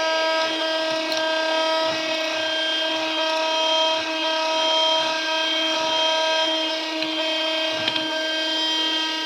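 Mini Henry desktop vacuum cleaner running with a steady high-pitched whine from its small motor, over a hiss of rushing air and a few light knocks.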